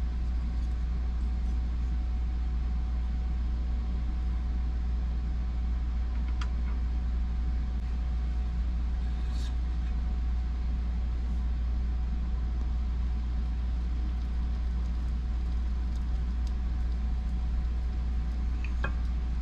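A steady low rumble and hum, like a running motor or fan, with a faint steady tone and a few faint light clicks.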